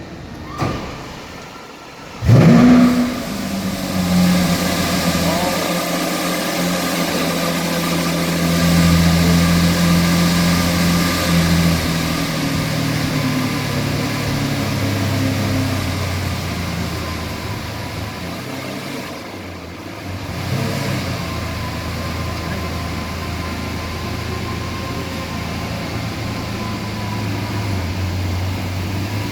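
Lamborghini Aventador SV Roadster's 6.5-litre V12 starting: it catches about two seconds in with a loud flare of revs, then settles into a steady high idle.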